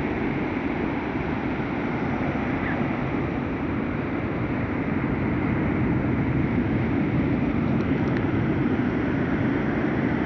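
Sea surf: a steady rush of waves, growing slightly louder about halfway through.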